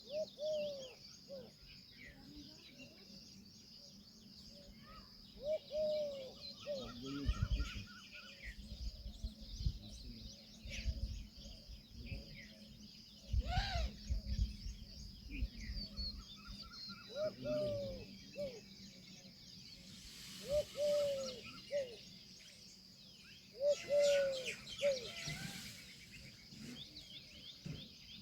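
Peahen calling: short, arching honk-like notes in groups of two or three, repeated several times, with smaller birds chirping faintly in between.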